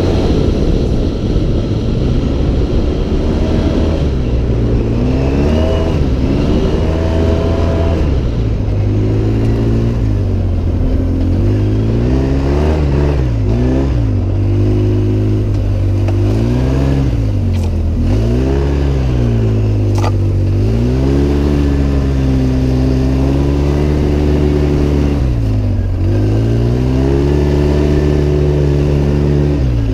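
Engine of an off-road vehicle being driven hard, its pitch rising and falling every second or two as the throttle is worked on and off.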